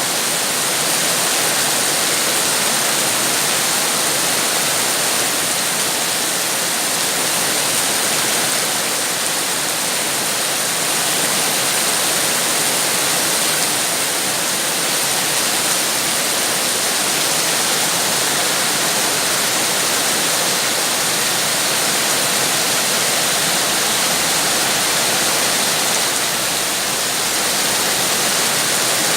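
Steady, heavy rain falling, an even unbroken hiss with no single drops standing out.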